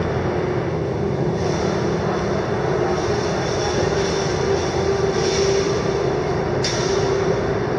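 Electric commuter train at the platform, a steady rumble with a constant hum.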